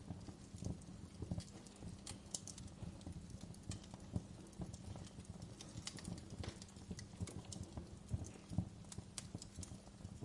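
Wood fire burning in a fireplace, with irregular sharp crackles and pops over a steady low rumble of flame.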